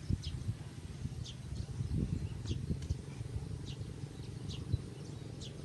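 Faint short, high bird chirps about once a second, over a low, uneven background rumble.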